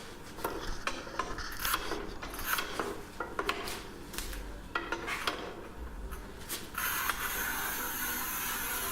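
Manual tile cutter working a porcelain stoneware slab: scraping and rubbing with sharp clicks and knocks at irregular intervals. A steady hiss sets in about seven seconds in.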